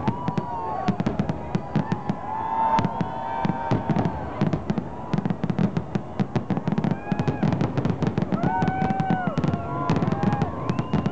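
Aerial fireworks display: a dense barrage of shell bursts, many sharp bangs and crackles a second. Several short rising-and-falling whistling tones sound over the bangs.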